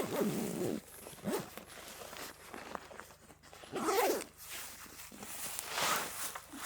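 A zipper being pulled open and shut in several quick strokes, each a short rasp that glides in pitch, with soft rustling of fabric between them.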